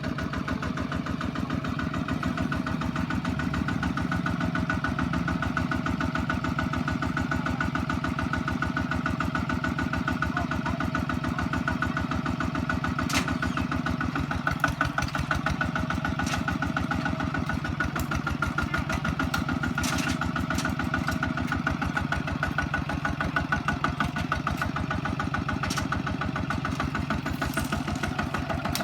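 Kubota ZT155 single-cylinder diesel engine running steadily with a fast, even beat. A few sharp clicks are heard over it in the second half.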